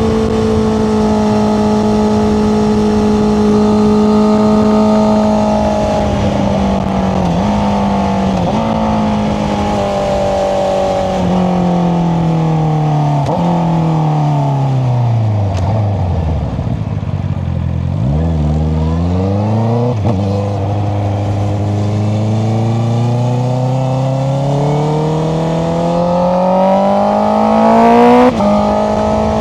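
Honda CBR650R inline-four engine through an Akrapovic exhaust with the dB killer removed, under way. It runs steadily at first, then its note falls as the bike slows almost to idle a little past halfway, then rises steadily as it accelerates, with a brief rev spike and drop near the end, typical of a gear change.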